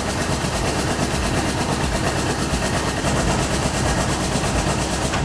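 Computer-controlled loom weaving a tapestry, inserting weft picks at about 550 a minute: a loud, rapid, even mechanical clatter that stops suddenly at the end.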